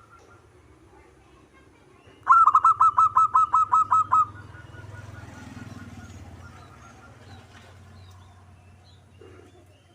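Zebra dove (perkutut) calling: after a couple of seconds of faint, scattered short notes, a loud, quick run of about eleven clipped cooing notes lasts roughly two seconds. Softer repeated notes follow.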